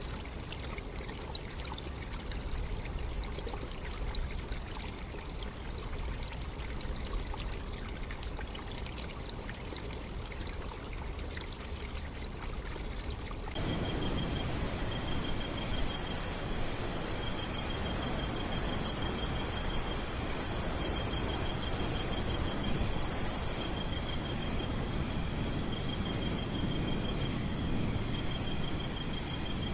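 Faint running water, then an abrupt switch about 13 seconds in to a loud chorus of jungle insects. It has a dense high buzz and a steady, rapidly pulsing trill, and the buzz breaks into pulses about ten seconds later.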